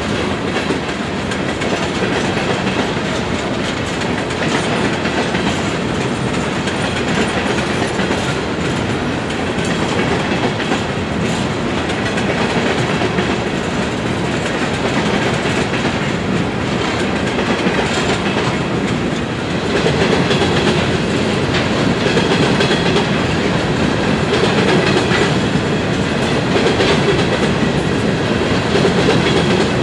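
Freight train of hopper cars rolling past, a steady clatter and rumble of steel wheels on the rails, growing a little louder about two-thirds of the way through.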